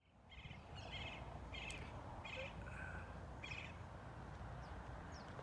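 A bird chirping repeatedly: about five short chirps roughly half a second apart, then a few fainter, thinner chirps, over a steady low outdoor rumble. The sound fades in at the start.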